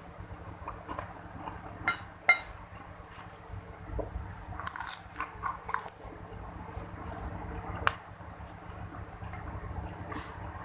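Close-up eating sounds: two sharp clinks of a spoon on a plate about two seconds in, then a few seconds of crunching and chewing with small mouth clicks.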